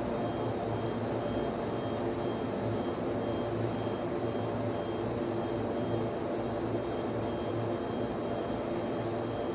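Steady drone of server and network-switch cooling fans, with a low electrical hum under it. A faint high-pitched tone pulses on and off a little more than once a second.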